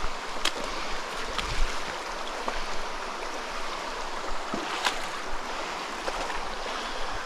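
Small rocky mountain stream running steadily, an even rush of water, with a few faint ticks over it.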